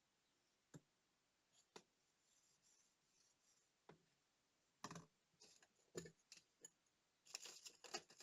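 Faint, scattered clicks and taps of small parts and tools being handled during watch disassembly or cleaning, coming more often after about five seconds, then a short stretch of scraping or rustling near the end.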